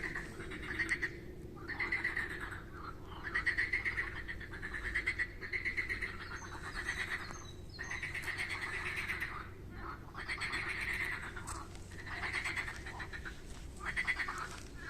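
Frogs calling in a pond chorus: overlapping fast-pulsed calls in bouts of about a second, one after another throughout.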